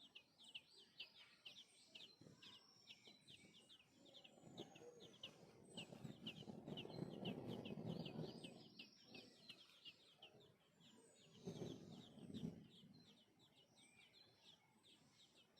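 Small birds chirping, a steady stream of short, high, quick notes several times a second. A louder low noisy rush swells up around the middle and comes again briefly a little later.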